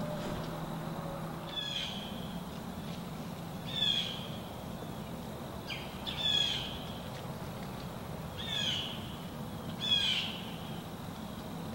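A bird calling in the woods: five short calls spaced about two seconds apart, over a steady low background noise.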